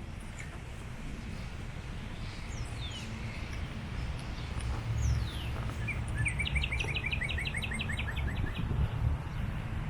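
Birds calling over a steady low rumble: two quick downward-sliding whistles, then a fast trill of short chirps, about six a second, lasting roughly two seconds from about six seconds in.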